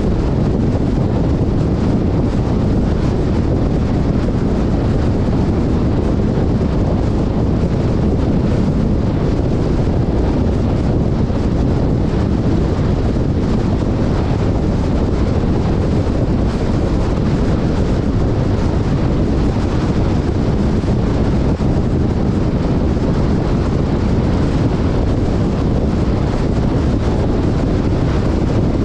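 Steady wind rumble on an action-camera microphone with a vehicle running underneath, as on an off-road ride through desert dunes.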